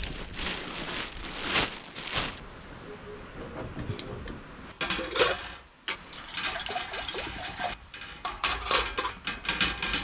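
Water pouring and splashing in irregular gushes, with a few light clinks of dishes: washing up by hand.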